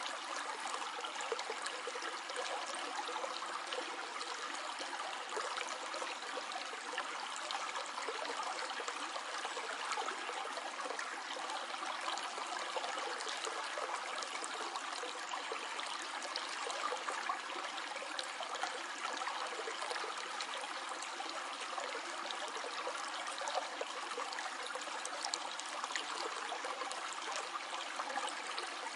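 Small stream flowing steadily over stones, a continuous bubbling and trickling of water.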